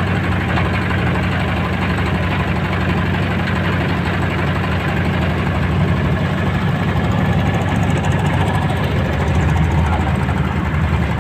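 Motorboat engine running steadily, a dense low hum with a rattling, chugging texture.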